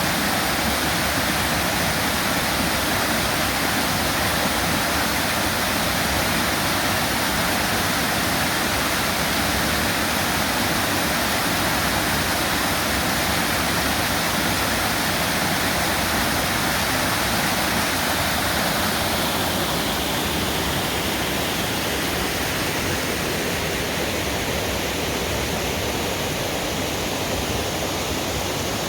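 Waterfall running: a steady, even rush of falling water. Its higher hiss eases slightly about two-thirds of the way through.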